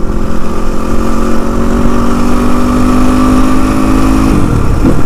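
Motorcycle engine running while riding, with heavy low wind rumble. Its pitch climbs slowly and steadily, then drops about four seconds in.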